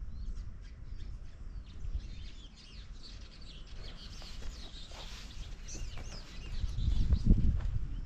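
Wild birds chirping and calling, many short rising and falling notes overlapping. About seven seconds in, a louder low rustling thump sounds under the birdsong.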